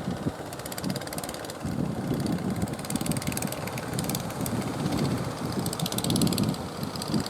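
Fishing boat engine running with rapid, even firing pulses, under wind buffeting the microphone that grows stronger about a second and a half in.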